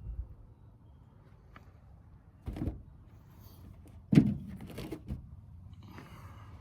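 A few separate knocks and thuds, the loudest about four seconds in, followed by a brief rustle, over a faint low background hum.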